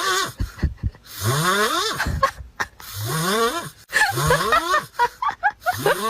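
An animal's repeated harsh, breathy calls, about five of them, each rising in pitch and lasting roughly a second, with short gaps between.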